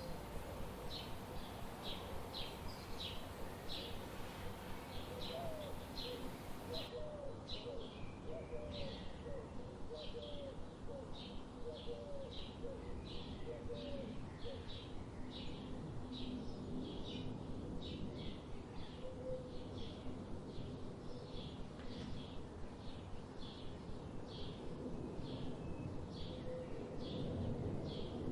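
A songbird chirping repeatedly, short high notes about twice a second. A run of lower, hooked calls repeats underneath through the first half.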